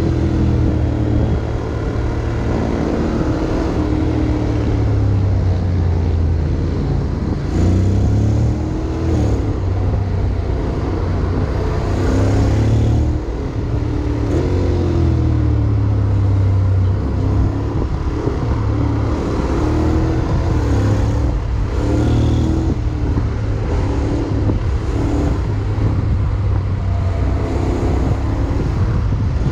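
Honda X-ADV 750's parallel-twin engine running under way, its pitch rising and falling again and again as the revs change, over a steady rush of wind and road noise.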